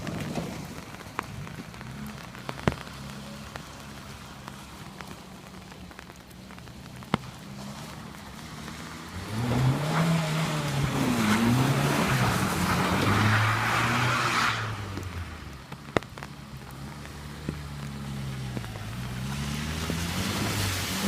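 Dodge Dakota pickup's four-cylinder engine running low, then revving up and down repeatedly from about nine seconds in, louder as it goes. A loud hissing rush comes in over the revving for a few seconds. There are a few sharp clicks.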